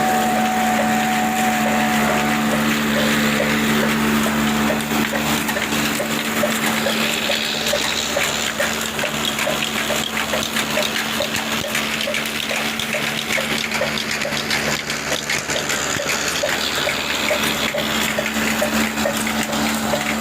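Old Ruston Hornsby diesel engine running steadily while it drives an atta chakki flour mill, with a regular beat over a constant hum and a grinding hiss.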